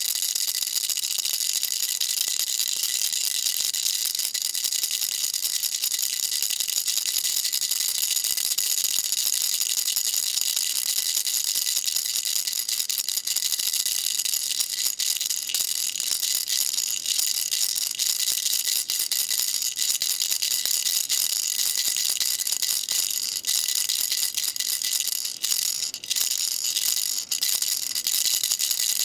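A baby rattle shaken continuously, a dense, steady, high-pitched rattling that briefly falters a few times near the end.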